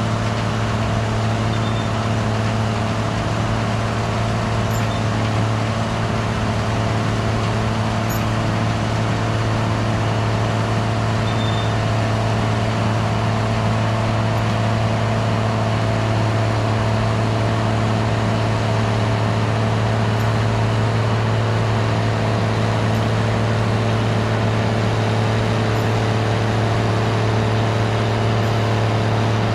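Gleaner R72 combine running steadily: a constant deep engine drone with the even hum of its machinery, unchanging throughout.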